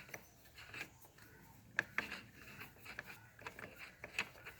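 Light metal clicks and scraping as motorcycle clutch parts and tools are handled during removal of the clutch basket, with a few sharper clinks.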